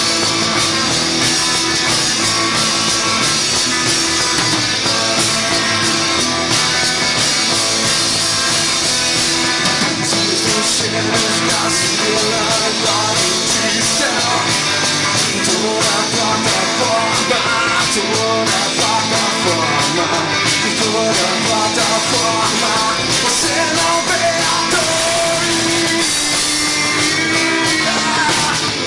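Rock music at a steady loud level, a passage of the song with no sung words.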